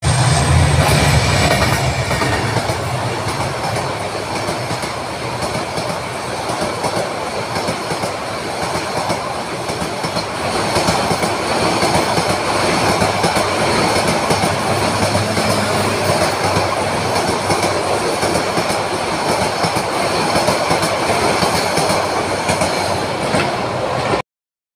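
A diesel locomotive rumbles past at the start, with a thin high wheel squeal sliding down over the first couple of seconds. Then a long train of passenger coaches rolls by close, its wheels clattering and clicking over the rail joints. The sound cuts out briefly just before the end.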